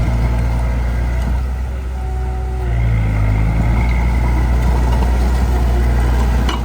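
Heavy-equipment engine running loudly, easing briefly and then picking up again about three seconds in.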